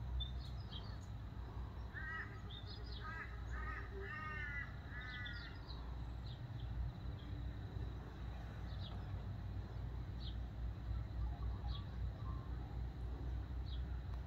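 A bird gives a quick series of about five calls about two seconds in, with short high chirps from other small birds scattered through, over a steady low rumble.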